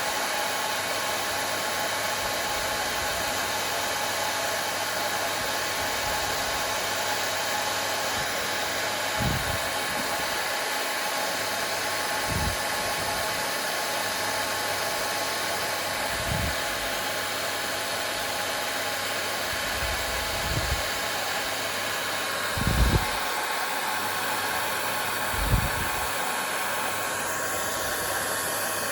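Hair dryer running steadily, a constant rush of blown air with a faint motor tone. A few short, soft low thumps come through underneath it.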